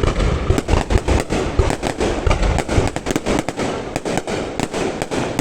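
Aerial fireworks display: a rapid barrage of overlapping bangs and crackle, several reports a second, dying away at the very end as the display finishes.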